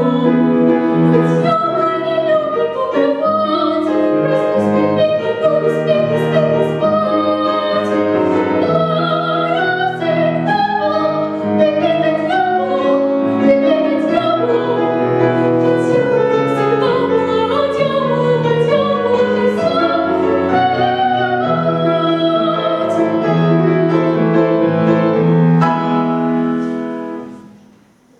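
A female voice singing in classical style with piano accompaniment, a vocal competition performance. The song comes to its close and dies away about 27 seconds in.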